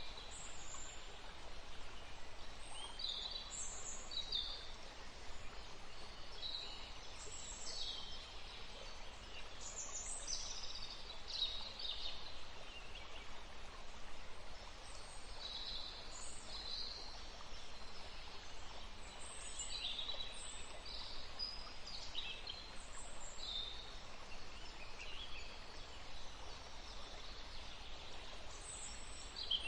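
Small birds chirping: many short, high calls come and go throughout, over a steady background hiss.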